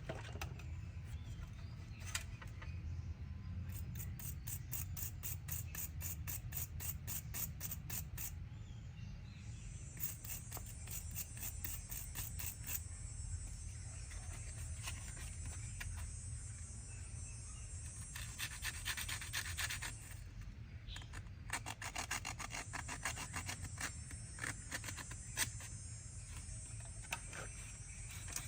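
Hand scraping or rubbing on a hard surface, like filing or sanding, in runs of quick, even strokes of about four a second, over a steady low hum.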